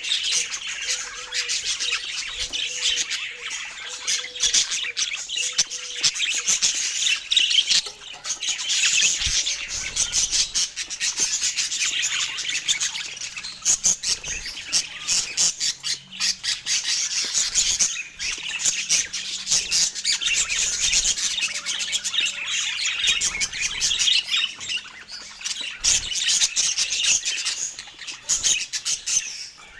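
Budgerigars chattering continuously, a dense mix of fast chirps, warbles and short squawks.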